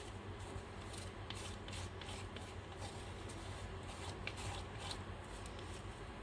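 Paper and printing tools being handled on a work table: light rustling and soft scraping with scattered small ticks, over a faint steady low hum.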